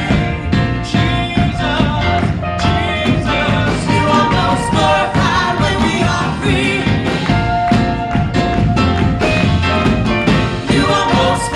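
Upbeat praise-and-worship music played by a band with a steady drum beat, with voices singing.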